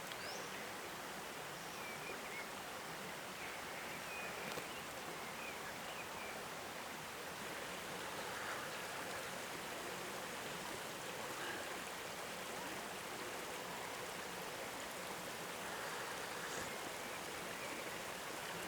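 Steady rushing outdoor noise, like a stream, with a few faint bird chirps between about two and six seconds in.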